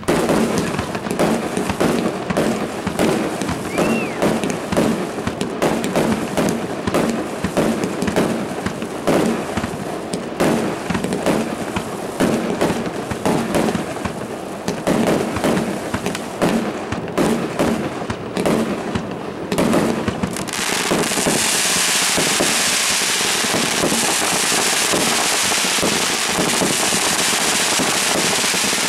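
Fireworks display: aerial bursts going off in quick succession as a string of separate bangs and pops, with a short whistle about four seconds in. About twenty seconds in it turns into a dense, unbroken barrage of rapid reports.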